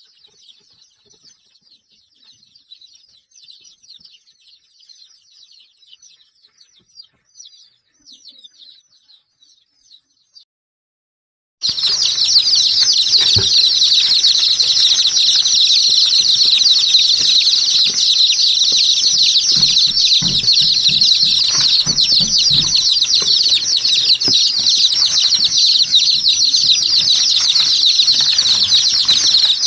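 A flock of small birds chirping densely and continuously: faint at first, then after a brief break much louder and busier, with scattered soft knocks and flutters underneath.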